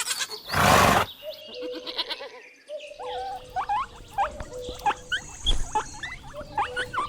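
A pony gives one short, loud, breathy blow about half a second in. Quieter short rising chirps repeat through the rest.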